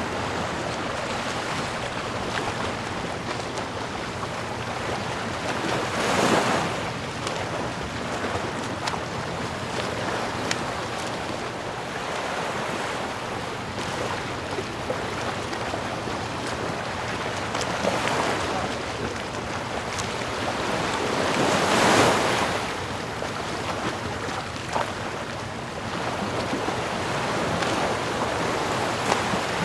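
Ocean waves washing on a shore: a steady rush of surf with several waves breaking louder, the biggest a little past two-thirds of the way through.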